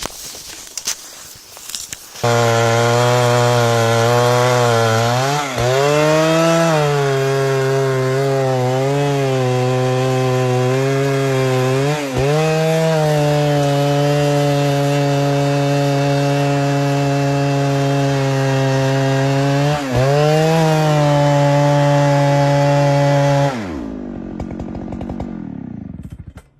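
A few sharp knocks, then a two-stroke chainsaw running hard as it cuts through wood. Its pitch dips briefly three times, and it winds down with a falling pitch near the end.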